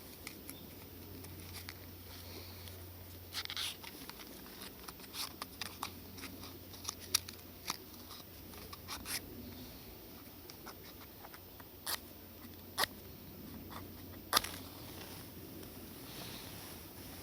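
Kindling of a campfire that is being lit, crackling and snapping irregularly, with a few louder sharp pops.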